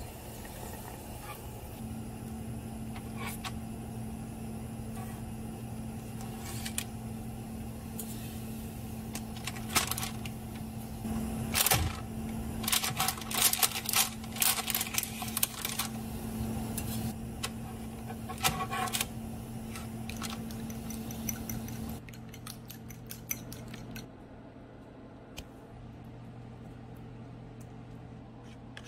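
Metal slotted spatula clinking and scraping against a pot and tray while moving boiled pretzel dough, in a cluster of sharp clanks. A steady low hum runs underneath and drops off about two-thirds of the way through.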